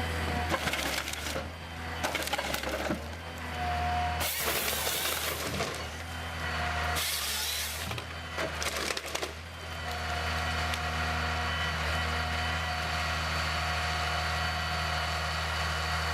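A heavy machine's engine running steadily while wood cracks and splinters in bursts; after about ten seconds the cracking stops and only the engine runs.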